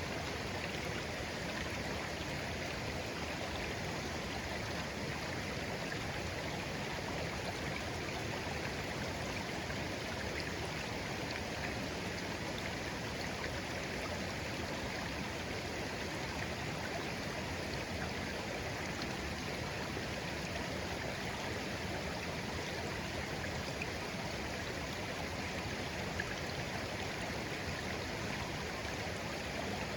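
Shallow clear stream flowing steadily over stones, a constant babbling rush of water with no pauses or changes.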